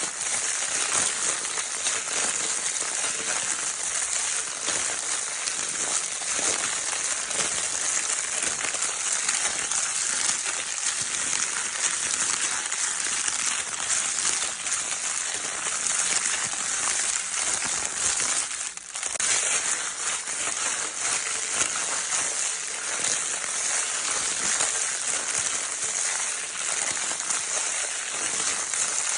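Baby crinkle paper toy being crinkled and rustled continuously, a dense hissy crackle with a brief lull about two-thirds of the way through.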